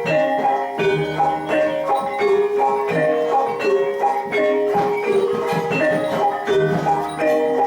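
Javanese gamelan playing jathilan accompaniment: bronze-keyed metallophones striking a repeating melody in a steady, even pulse, with drum strokes underneath.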